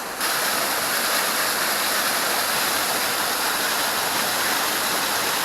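Small creek waterfall: a steady rush of falling water, stepping up in level just after the start.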